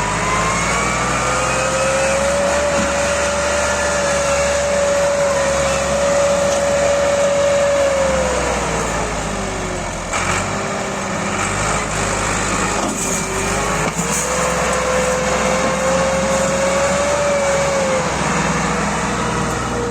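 Massey Ferguson 260 tractor's diesel engine revving hard under load as it strains to pull a loaded trolley stuck in mud. Its pitch climbs and holds for several seconds, drops about eight seconds in, then climbs again about fourteen seconds in and falls back near the end.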